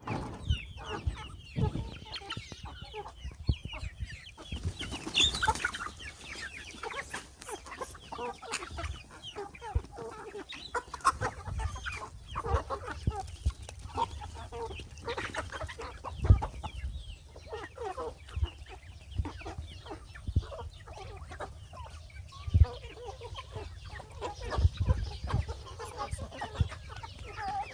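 Chickens clucking continuously in many short, overlapping calls, with scattered low thumps, the loudest about halfway through.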